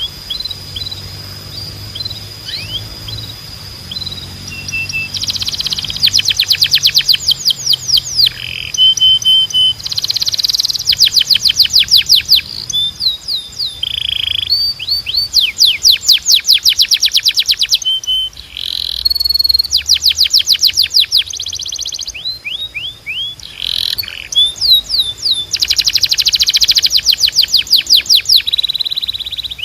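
Spanish Timbrado canary singing: phrases of fast trills, each a rapid run of repeated downward-sweeping notes, alternating with short held notes and brief pauses.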